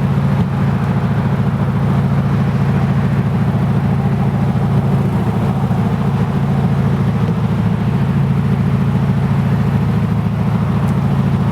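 Hyundai Genesis Coupe 2.0T's turbocharged four-cylinder idling steadily through a 3-inch catless single-exit exhaust, with a deep, even drone.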